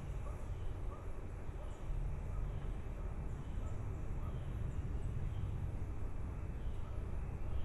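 Faint, short chirps from baby birds, scattered at irregular intervals over a steady low rumble.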